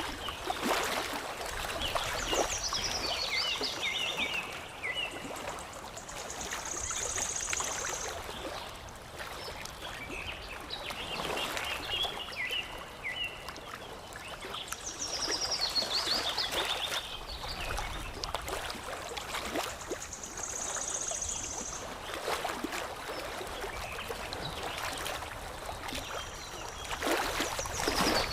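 Water lapping and trickling in gentle swells, with songbirds chirping over it: short runs of falling chirps and a high buzzy trill, the same bird phrases coming back about every 13 seconds.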